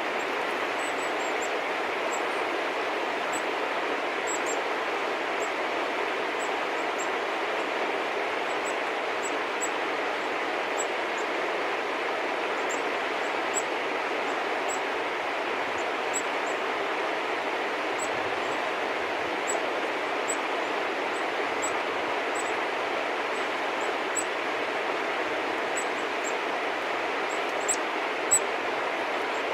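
Steady rushing outdoor background noise with small birds' short, faint high chirps scattered through it, and a couple of sharper ticks near the end.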